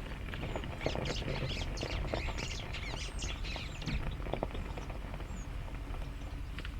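Wild birds chirping and chattering, many short overlapping calls, over a low steady rumble.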